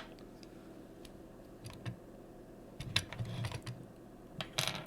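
Hard plastic Transformers figure parts handled, with scattered small clicks and a quick cluster of light knocks, like pieces being fitted together.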